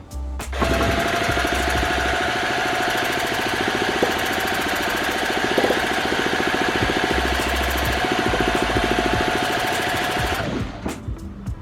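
Handheld electric starter spinning a Saito FA-40 four-stroke model glow engine over in an attempt to start it, a steady whine over a fast, even chatter. It starts abruptly shortly after the beginning and stops abruptly near the end.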